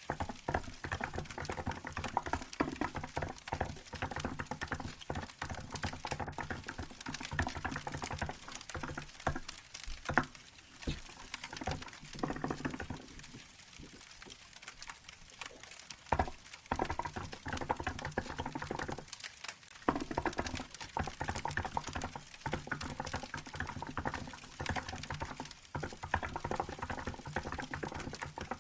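Rapid typing on a Hansung GK868B mechanical keyboard with milk keycaps, a dense run of irregular keystroke clicks that lulls for a few seconds about halfway through.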